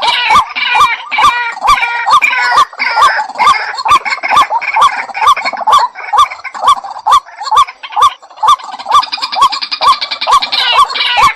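White-breasted waterhen calling: a long, steady series of repeated short notes, about two to three a second, with a fast chattering above them.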